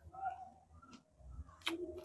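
Close-miked chewing of a mouthful of rice, with soft wet mouth noises and one sharp click near the end.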